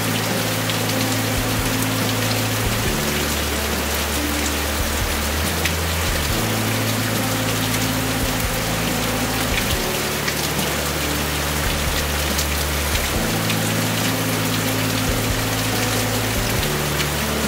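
Heavy monsoon rain falling steadily, a dense patter of drops striking surfaces. Low, soft sustained tones change every few seconds underneath.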